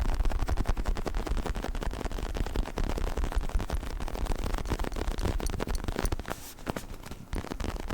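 Fingers scratching and rubbing a faux-leather neck pillow close to the microphone: a dense, continuous crackling scratch with a low rumble underneath.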